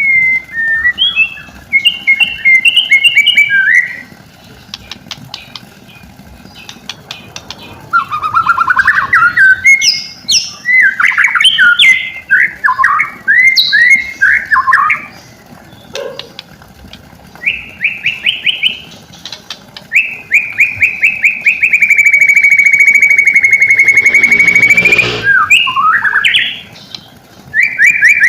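White-rumped shama (murai batu) singing a varied run of loud whistled and chattering phrases with short pauses between them. About twenty seconds in comes a long, rapid trill of repeated notes that ends in a harsh buzzing call.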